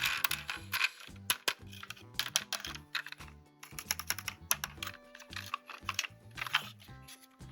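Quick, irregular clicking and tapping of hard plastic toy parts being handled, several clicks a second, with a louder cluster right at the start. Background music with low held notes plays underneath.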